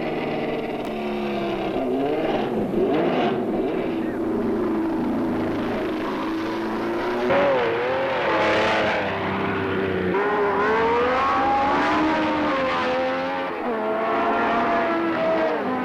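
1970s Formula 1 race car engines running at high revs. More than one engine is heard at once, their pitch rising and falling as the cars pass and accelerate.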